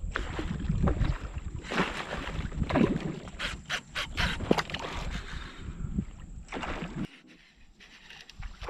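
Water sloshing and splashing around a fishing kayak, with many short knocks and splashes over a low rumble that stops suddenly about seven seconds in.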